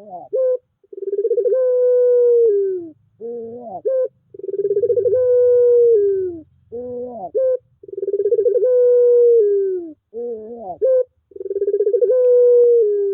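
Puter pelung (a domestic barbary dove bred for its long coo) calling over and over. Each call is a short rising-and-falling phrase followed by one long, drawn-out coo that sags in pitch at the end, about four times in all.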